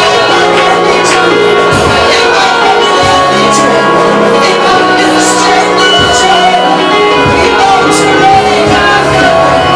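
Live worship band playing loudly, with sustained keyboard-like chords, bass notes and drum strikes with cymbals every second or so.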